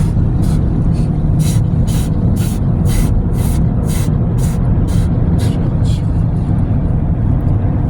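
Automatic car wash dryer blowers running, a loud steady rumble of rushing air heard from inside the car, with a hiss that pulses about twice a second.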